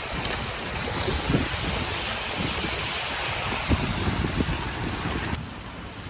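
Wind buffeting the microphone in irregular low gusts over a steady rushing noise that swells in the middle and drops just before the end.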